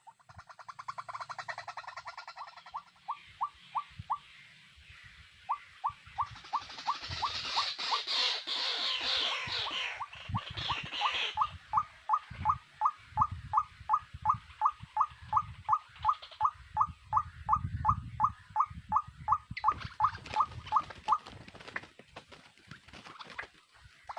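A small animal calling over and over in short, evenly spaced notes, about four a second. A burst of high chattering, rustling noise joins in partway through, and there are scattered low thumps.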